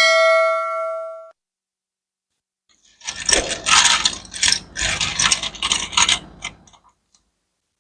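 A ringing chime that dies away about a second in, then, after a short pause, a few seconds of quick irregular clattering and rattling, like loose plastic Lego bricks being poured and stirred.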